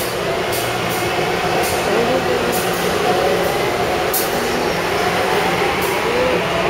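Taipei Metro C301/C371-type train running between stations: steady rolling noise with a faint wavering whine and occasional short clicks from the wheels on the track.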